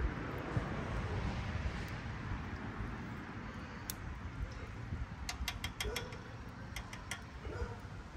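Low rumbling outdoor noise, then a quick run of about ten sharp clicks or clinks a little past the middle.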